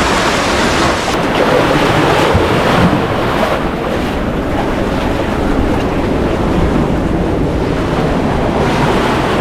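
Heavy surf breaking and washing over a rough rocky coast: a loud, continuous rushing with low rumble, and wind buffeting the microphone.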